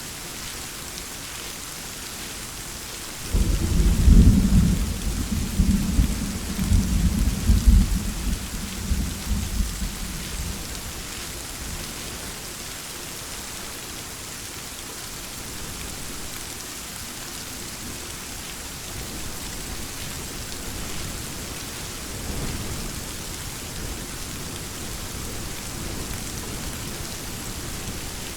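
Steady rainfall with a loud clap of thunder that breaks in suddenly about three seconds in and rolls on, rumbling and fading over several seconds; a fainter, shorter rumble of thunder comes near the end.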